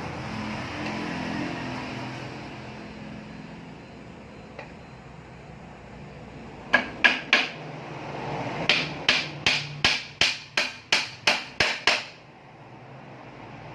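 Hand hammer striking during assembly of a noodle machine: three quick blows, a pause of about a second, then a run of about ten evenly spaced blows at roughly three a second that stops abruptly.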